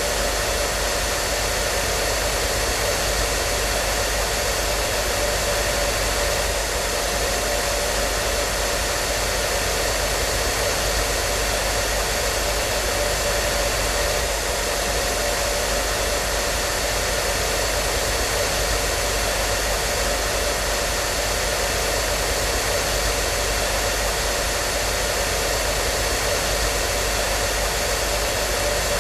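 Hair dryer running continuously at a constant setting: a steady airy rush of blown air with a steady motor hum under it.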